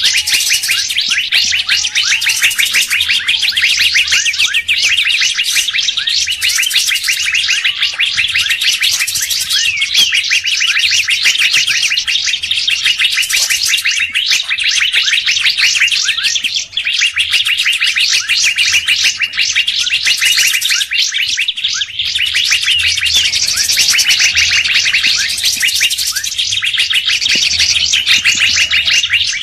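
Bird-lure recording of songbird calls: a dense, continuous chatter of very rapid repeated high notes, with faint wavering whistles underneath.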